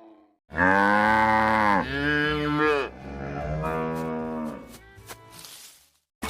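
Domestic cow mooing: three long calls in a row, the last one fading out.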